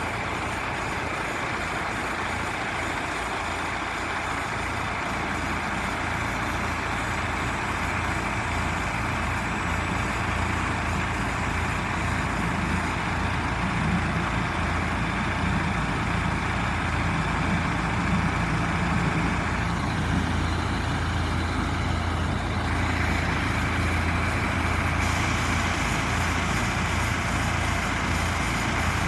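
Vacuum truck running steadily, a continuous machine noise with a low hum underneath that grows a little stronger past the middle.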